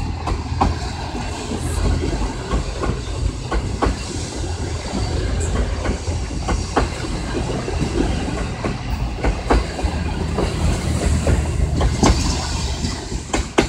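Passenger coaches rolling past close by: a steady low rumble of wheels on rail with irregular sharp clacks as the wheels cross rail joints.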